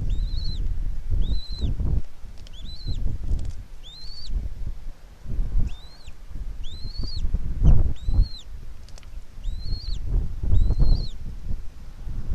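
A bird calling over and over: short, high, arched chirps, one or two a second with a couple of brief pauses, over gusty low rumbling from wind on the microphone.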